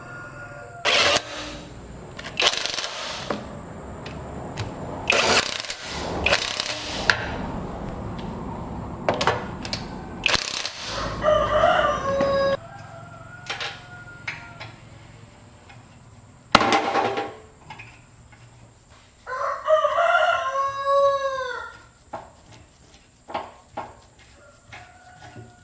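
Several short, harsh noisy bursts and knocks from hand-tool work on the engine, the loudest a sharp knock about two-thirds of the way in, followed by a rooster crowing once for about two and a half seconds.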